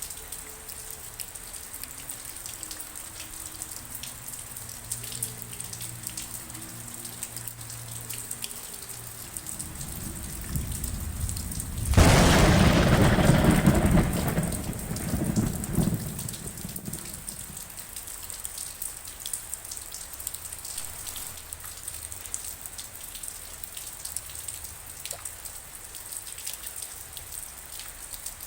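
Steady rain falling, with a thunderclap about twelve seconds in: a low rumble builds, then a sudden loud crack that rolls on for about four seconds before dying away back into the rain.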